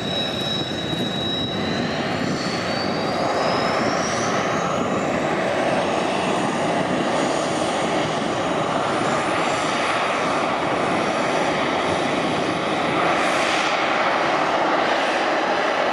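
Kawasaki T-4 jet trainer's twin turbofan engines spooling up: a high whine holds steady, then rises in pitch from about two seconds in, over a broad rush of jet noise that grows louder.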